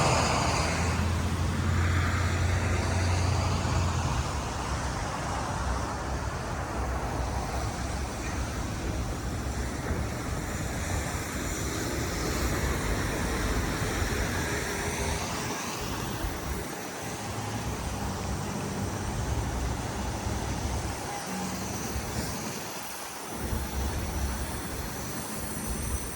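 Street traffic: vehicles running and passing, with a heavy vehicle's low engine hum in the first few seconds, then a steady road noise.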